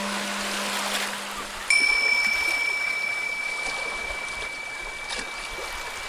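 Ocean waves washing steadily, with a low singing bowl tone fading out; about two seconds in a high-pitched singing bowl is struck and rings a single clear tone that slowly dies away.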